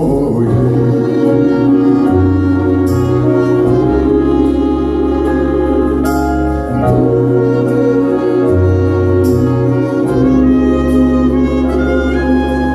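Live band playing an instrumental passage of a slow soul ballad: a held lead melody over a moving bass line, with bright hits about every three seconds.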